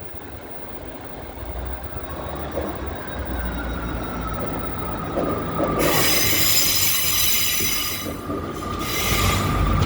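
Northern Class 158 diesel multiple unit braking into the platform: a slowly falling whine over a low rumble, broken by two loud bursts of high-pitched squeal from the wheels and brakes, the first about six seconds in, the second about nine seconds in.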